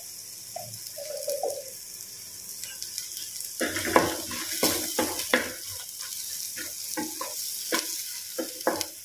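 Spice masala paste sizzling in oil in a clay pot. A wooden spatula starts scraping and stirring it about three and a half seconds in, in quick irregular strokes against the pot.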